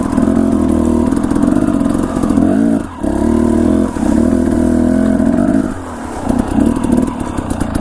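Dirt bike engine running under steady throttle while riding on a trail, with brief drops in engine note where the throttle is rolled off or a gear is changed, and choppier, uneven throttle near the end.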